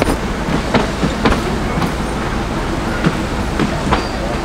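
Narrow-gauge passenger train running on the rails: a steady rumble with sharp wheel clicks over the rail joints. A thin, high, steady whine comes in near the end.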